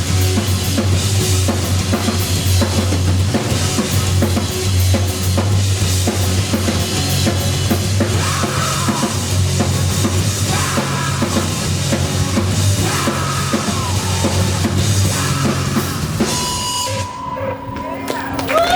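Live heavy rock band playing loud, with a drum kit's bass drum and cymbals pounding over a heavy bass line. About seventeen seconds in the band stops and a single held tone rings on alone.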